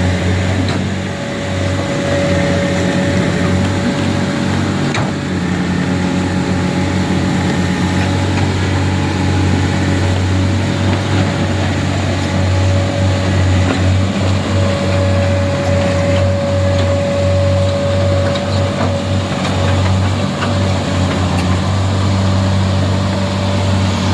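A heavy vehicle engine running steadily: a constant low hum with a thin, steady whine above it.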